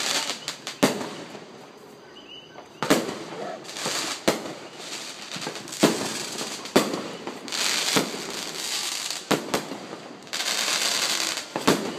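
Fireworks going off: about nine sharp bangs from aerial shells and firecrackers, one every second or so at irregular intervals, with stretches of hiss lasting about a second between them.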